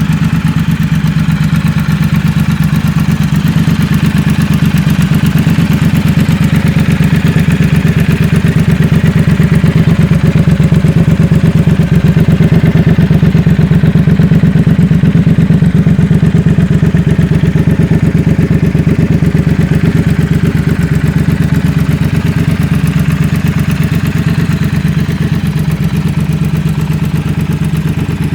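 Triumph Thruxton 1200 RS's 1200 cc parallel-twin engine idling steadily with an even pulse, getting slightly louder in the middle.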